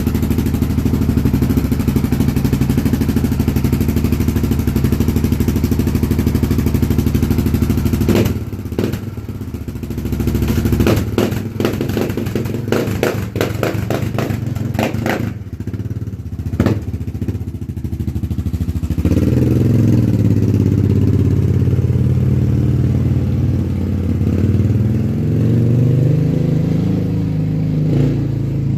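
Honda TRX700XX sport ATV's single-cylinder engine running through a new Big Gun ECO Series aftermarket exhaust: a steady idle, then about eight seconds in a quieter stretch with a run of sharp knocks and clicks, and from a little past halfway the engine being revved up and down repeatedly.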